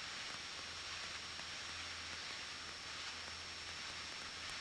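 Faint, steady cabin noise of a Cessna 172N in flight: the low drone of the engine and propeller under a steady hiss, as picked up by the cockpit audio.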